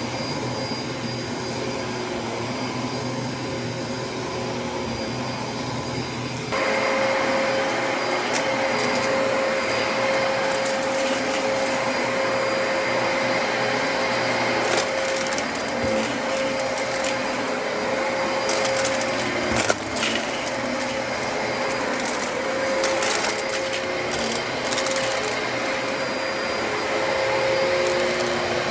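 Dyson DC33 upright vacuum cleaner running; about six seconds in its sound steps up louder with a steady whine, and from then on debris crackles and ticks as it is sucked up.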